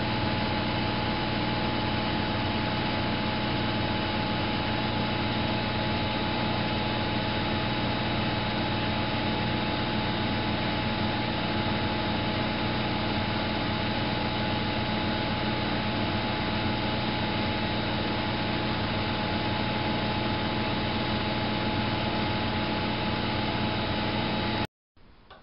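Miele Novotronic W830 washing machine running: a steady motor hum with a constant whine over even mechanical noise, which cuts off abruptly near the end.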